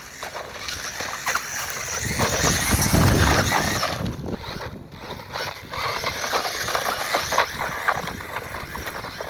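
Small 4S electric RC truggy (1/14-scale Rlaarlo XDKJ-005) driving on dirt: a high motor whine with tyres scrabbling over the ground. It swells loudest about three seconds in, eases off around five seconds, then builds again.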